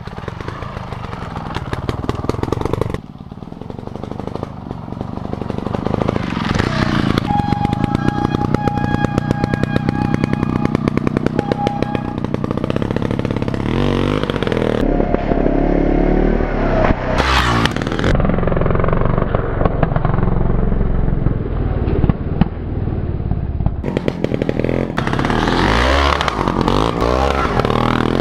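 Beta Rev3 270 trials bike's single-cylinder two-stroke engine running and revving, its note rising and falling with the throttle, across several cut-together shots.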